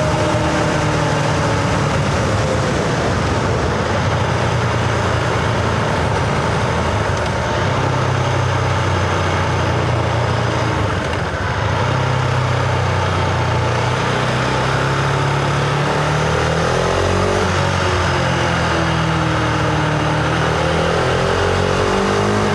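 Husqvarna Vitpilen 701's single-cylinder engine running steadily under way, with wind and road noise. In the second half the engine note rises and falls in pitch with throttle changes.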